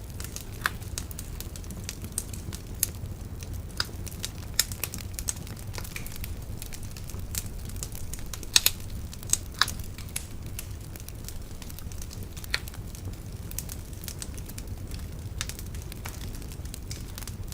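Wood bonfire burning with irregular sharp pops and crackles over a steady low rumble of the flames, a cluster of louder pops about halfway through.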